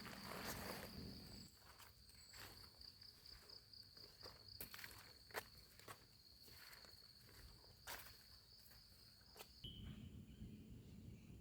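Scattered footsteps on wet forest-floor leaf litter and twigs, faint, with a steady high-pitched insect drone that stops about nine and a half seconds in.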